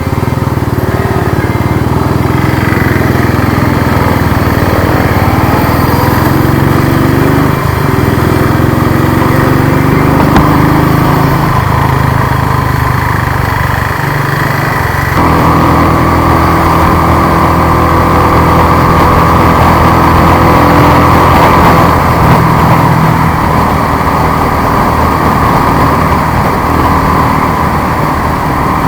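Royal Enfield Thunderbird 350's single-cylinder engine running on the move. Its pitch rises and falls in the first half, and the sound turns brighter and louder about halfway through.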